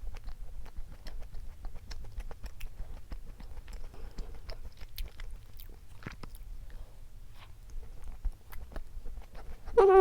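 A person chewing a Mont Shell Nutty Friends cream-filled chocolate snack cake, with many small mouth clicks. A short voiced hum falls in pitch near the end.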